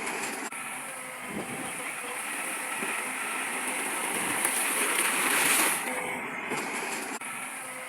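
Construction machinery at work moving stone: a steady, noisy, hissing sound that swells briefly about five seconds in.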